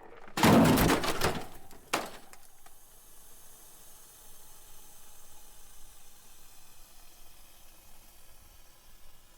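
Crash sound effect: a loud crash about half a second in, a second sharp hit near two seconds, then a steady hiss that runs on.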